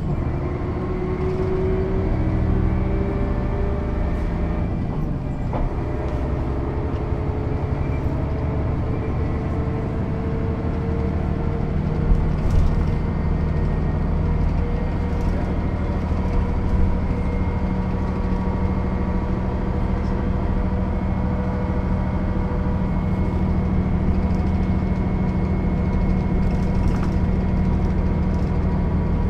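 Diesel engine of a 1996 Mercedes-Benz O 407 bus with a manual gearbox running under way. Its pitch climbs over the first few seconds, dips briefly about five seconds in, then holds steady.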